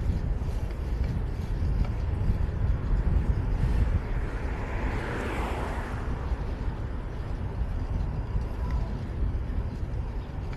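Wind rushing over the camera microphone of a cyclist riding through city traffic, with a vehicle passing close by that swells and fades around the middle.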